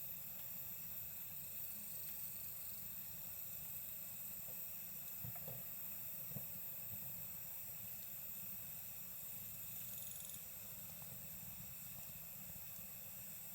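A steady chorus of night insects trilling at several pitches, over the low hiss of a campfire. A couple of soft crackles from the burning wood come around the middle.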